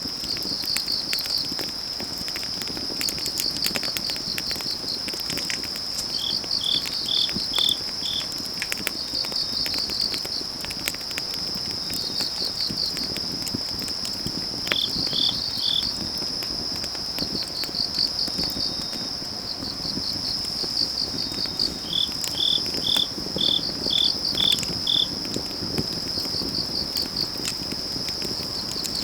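Autumn crickets and other night insects singing: a steady high trill under groups of fast, evenly pulsed chirps. A firewood fire crackles with scattered sharp pops beneath it.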